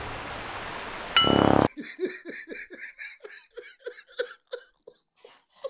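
A brief loud high tone about a second in, then a long run of short, evenly spaced laughs, about three to four a second, that fades out near the end.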